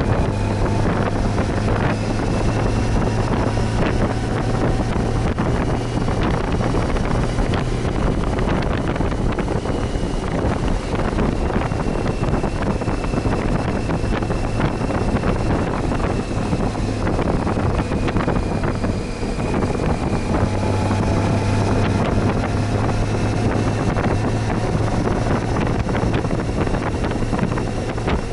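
Honda Gold Wing motorcycle being ridden at steady speed: a steady low engine hum under heavy wind rush on the microphone, with faint tones that drift slowly up and down.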